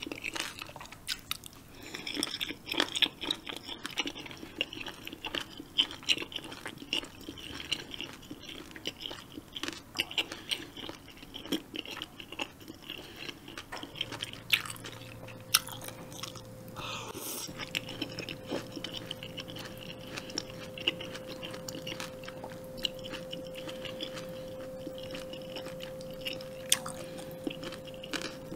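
Close-up mouth sounds of someone eating jjamppong, spicy Korean seafood noodle soup: chewing and biting with many small wet clicks and crunches. A faint steady hum comes in about halfway through.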